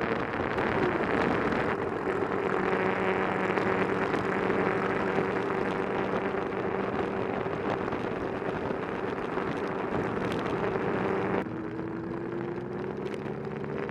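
Motorcycle engine running steadily at highway speed, with a rush of wind and road noise. About eleven seconds in the sound changes abruptly to a quieter engine note that slowly rises in pitch.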